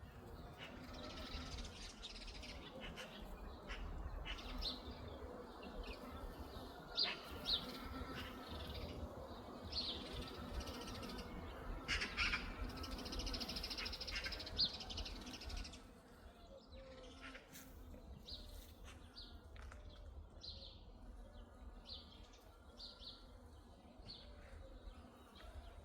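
Wild birds singing and calling, many short chirps and call notes overlapping. The calls are busier and louder through the first half and thin out about halfway through.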